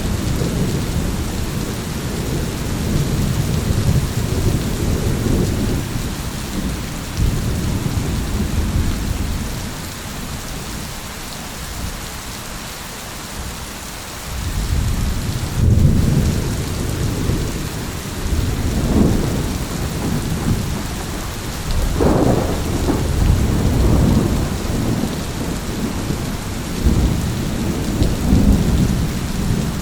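Thunderstorm: steady rain hiss under rolling low thunder. The rumble eases to a lull about a third of the way in, then builds again with sharper claps near two-thirds through.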